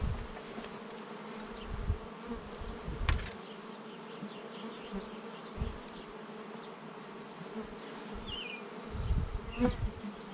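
Honey bees humming steadily from an open hive, with a few low bumps and a sharp click.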